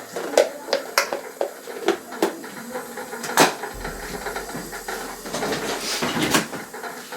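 Dishes and cutlery clattering: a string of sharp clinks and knocks, the loudest about three and a half seconds in and another near the end.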